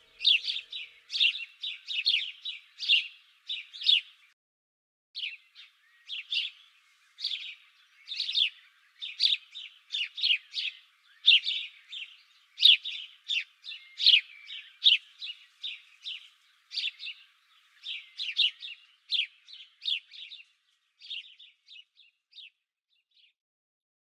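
Songbirds chirping: a rapid series of short, falling chirps, a few a second, with a brief pause about four seconds in, thinning out and stopping shortly before the end.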